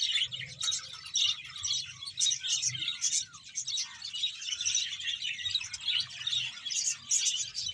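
A large colony of budgerigars chattering all together: many overlapping chirps and warbles with no pause.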